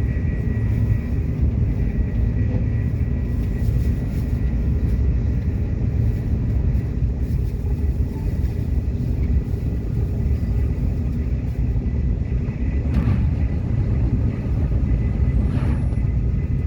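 Subway train running along the track, a steady low rumble with a faint steady whine above it, and two short knocks near the end.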